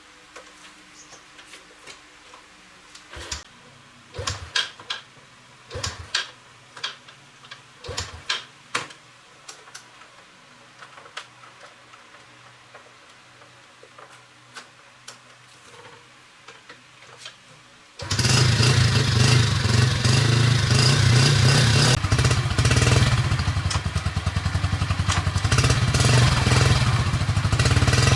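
Scattered light clicks and knocks of handling metal parts and tools, then, about two-thirds of the way through, the restored Yamaha 115cc motorbike's engine is suddenly heard running, loud and steady.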